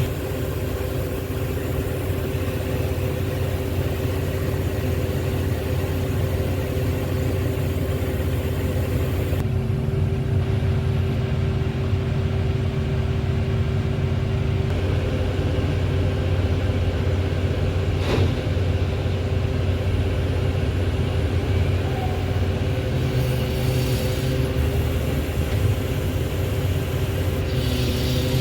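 Heavy diesel engine running steadily at a mud-loading site, with a single sharp knock about two-thirds of the way through.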